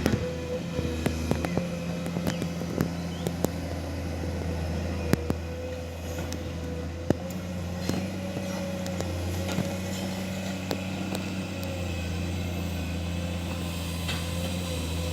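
Hydraulic excavator running with a steady low drone and a faint, slightly wavering whine, with scattered sharp clicks and knocks; two louder knocks come about 5 and 7 seconds in.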